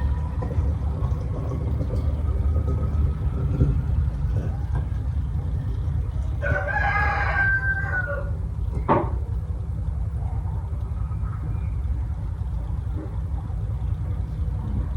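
A rooster crows once, about six and a half seconds in, for about a second and a half, over a steady low rumble. A sharp knock follows about two seconds later.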